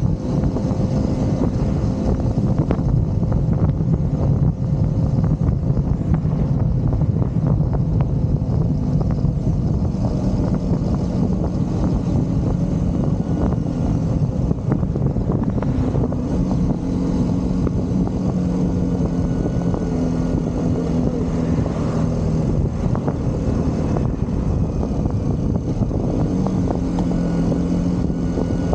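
Single-cylinder motorcycle engine running under way, a steady engine note over road and wind noise that shifts in pitch a little past halfway and again near the end.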